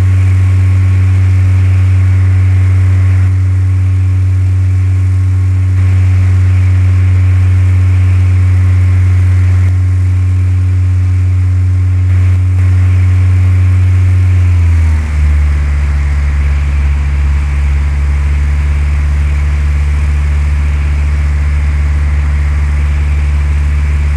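Cessna 172's piston engine and propeller droning steadily, then about fifteen seconds in the pitch drops to a lower steady drone as power is pulled back.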